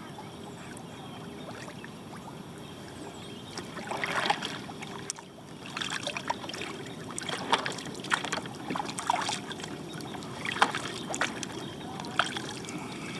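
Kayak paddle strokes in calm water: the blades dip, pull and drip in irregular splashes, which start about four seconds in and recur every second or so.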